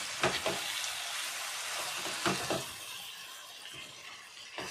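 Marinated chicken pieces sizzling in hot oil as a spatula stirs and turns them, with a few short knocks of the spatula against the pan. The sizzle eases off over the last couple of seconds.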